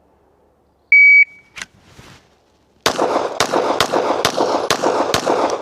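A shot timer beeps once. About one and a half seconds later a Glock 17 9mm pistol fires six quick shots, roughly half a second apart, with the range echoing between them.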